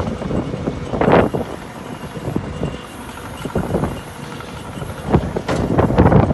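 Wind buffeting the microphone in irregular gusts, about a second in and again near the end, over a steady running engine.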